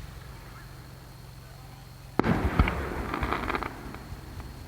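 Fireworks: after a quiet start, a sharp bang about two seconds in, a second pop just after, then scattered crackling that fades away.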